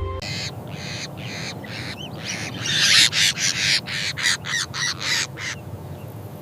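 A bird giving a fast series of short, harsh calls, about three a second, loudest around three seconds in and stopping about a second before the end, over a steady low outdoor background.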